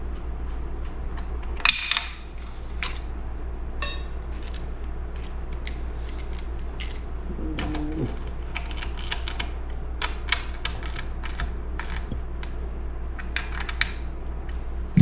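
Small metal and plastic parts clicking and tapping as a chainsaw's carburetor and throttle linkage are fitted back together by hand, with a louder clack about two seconds in. A steady low hum runs underneath.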